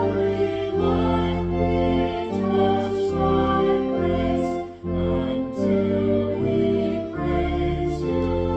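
Congregational hymn with organ accompaniment: the organ plays slow, sustained chords that change about once a second while voices sing along.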